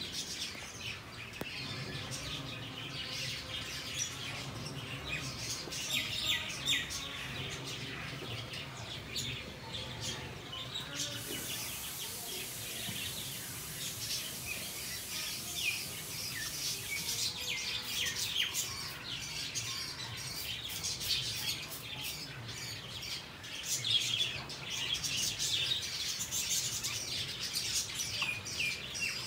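Small birds chirping, many short high calls overlapping throughout. A steady high hiss joins in for several seconds in the middle, over a faint low hum.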